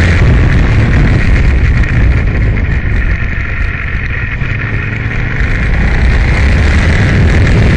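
Aprilia Tuono motorcycle engine running hard on track, mixed with heavy wind noise. It eases off in the middle, quieter from about two to five seconds in, then pulls hard and loud again.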